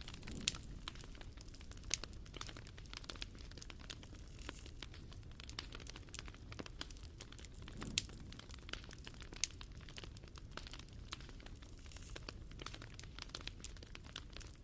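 Wood fire crackling, with irregular snaps and pops, a few of them sharper and louder, over a low steady rumble of the burning.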